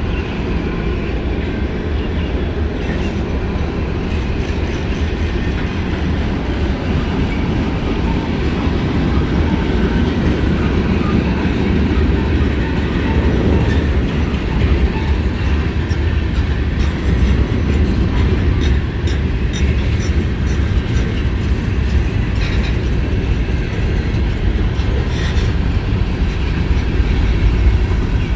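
Freight cars of a long CSX mixed freight train rolling past: a steady low rumble of steel wheels on rail, with light clicking over rail joints.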